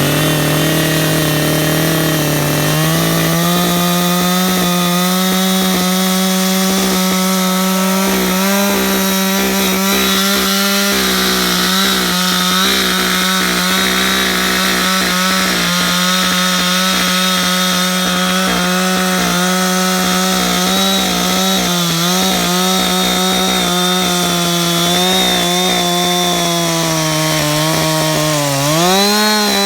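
Two-stroke chainsaw at high revs cutting into a California black walnut stump. Its engine note rises about three seconds in and holds steady under load, with small wavers as the cut goes on. Near the end it dips briefly and climbs back up.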